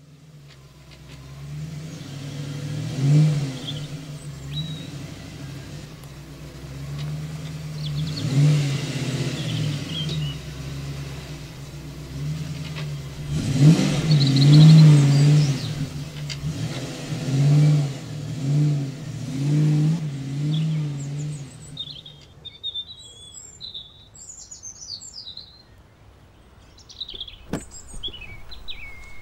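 SUV engine running as the vehicle drives along a bumpy forest track, its note swelling and easing several times with the throttle. The engine sound stops about three-quarters of the way through, leaving birds chirping and a few sharp clicks near the end.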